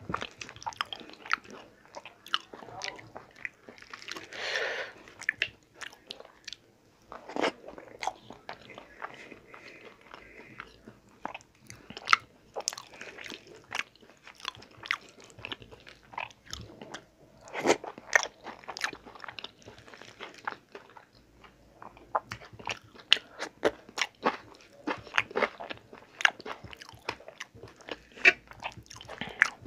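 Close-miked chewing and lip smacking of pulao rice mixed with dal, eaten by hand, with many sharp mouth clicks throughout and fingers working the food on a steel plate.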